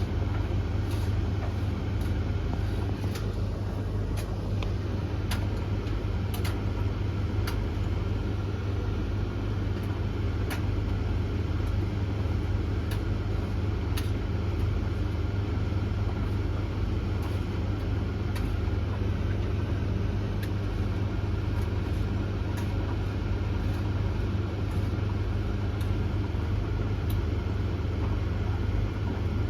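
Three tumble dryers running at once mid-cycle: a steady motor and drum drone with a strong low hum, with scattered light clicks and ticks.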